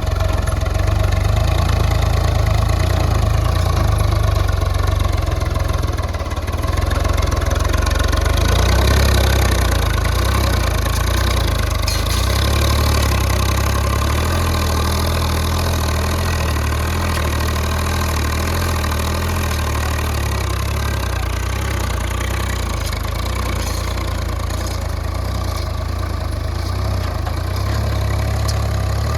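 Large diesel engine running steadily at an even speed, with a brief dip in loudness about six seconds in.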